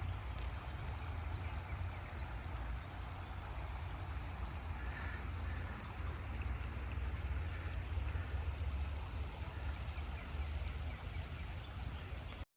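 Stream water flowing steadily over small rocks in a shallow creek, a continuous rushing with a steady low rumble underneath.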